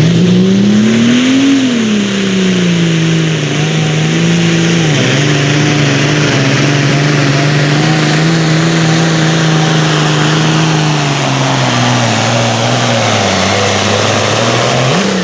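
Pulling vehicle's engine running hard under load on a hook down the track. The engine note climbs for the first second and a half, settles and holds fairly steady with a brief dip about five seconds in, sags gradually in the last few seconds, then rises sharply right at the end.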